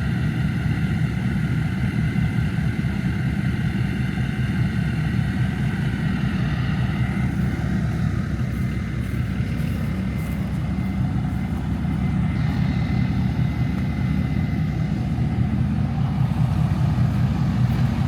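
A pickup truck engine running steadily at idle. A thin high whine sits over the engine note and fades about seven seconds in.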